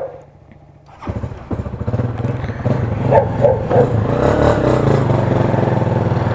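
A motorcycle engine starts up abruptly about a second in and keeps running with a fast, even pulse, while a dog barks several times in the middle.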